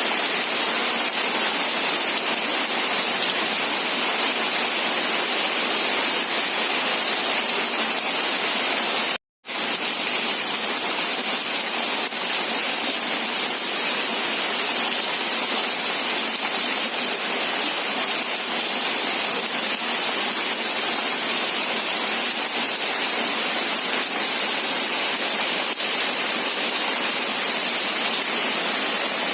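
Steady heavy rain, a dense, even hiss with no single drops standing out. It cuts out completely for a fraction of a second about nine seconds in.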